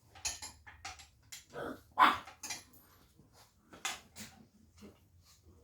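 A dog giving a few short vocal sounds, mixed with light clinks and knocks of metal tools, the loudest about two seconds in.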